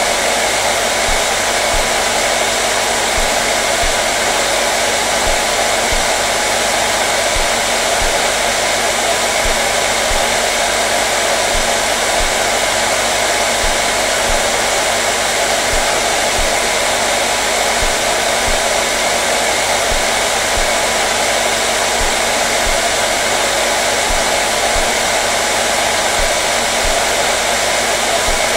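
Hair dryer running continuously at a constant setting: a steady rush of blown air with a faint motor hum underneath.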